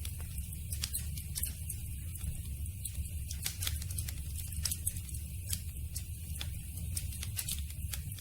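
Campfire burning: wood crackling and popping in frequent irregular sharp snaps over a steady low rumble of the flames.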